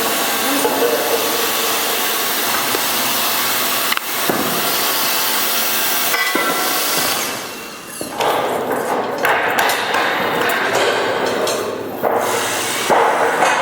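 Steady mechanical noise from steel-beam hoisting work, with a few sharp knocks of metal. It dips briefly about eight seconds in and comes back uneven.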